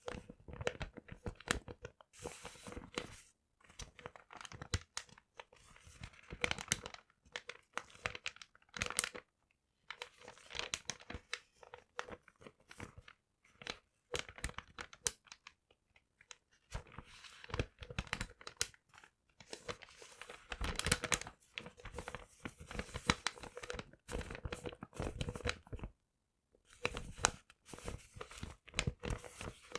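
Paper being crumpled and torn in irregular crackling bursts, separated by brief pauses.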